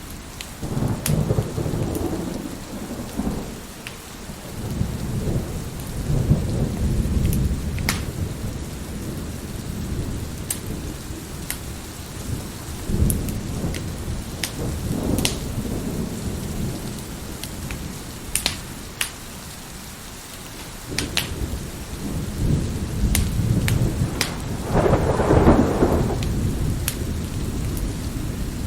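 Wood fire crackling with scattered sharp pops, over steady rain and several rolls of thunder, the loudest near the end.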